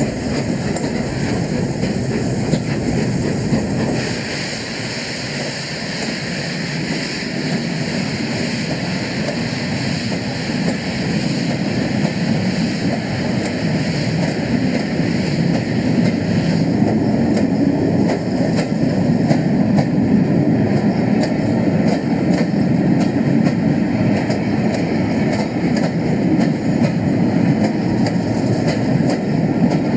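Steam-hauled Pullman train rolling along the track: a steady rumble of wheels on rail with quick clicks over the rail joints. It gets louder in the second half.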